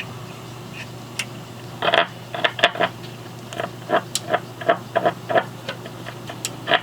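Irregular light clicks and taps, a few a second, from handling tools and parts on the record player. A steady low hum runs underneath.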